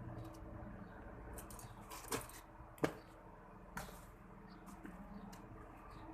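A steady low mechanical hum with three sharp clicks or knocks over it, about two, three and four seconds in, the middle one the loudest.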